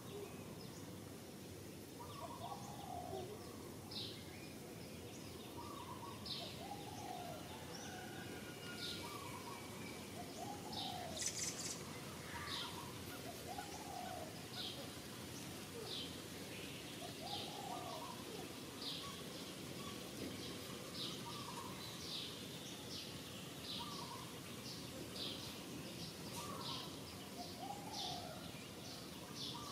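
Birds calling in forest: one bird repeats a short two-part call about every second and a half, and other birds give short high chirps, more often towards the end, over a steady background hiss.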